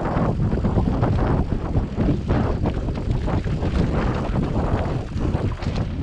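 Wind rushing over the microphone of a moving, body-mounted camera, mixed with a low rumble and irregular knocks and rattles from riding a bike over a rough forest trail.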